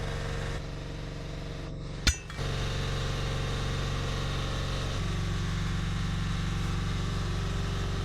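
Engine idling steadily, with one sharp bang about two seconds in; the engine's note shifts after it.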